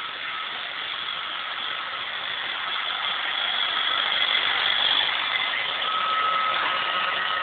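iRobot Roomba 560 robot vacuum running: a steady whirr of its motors and brushes with a thin high whine, growing louder about halfway through.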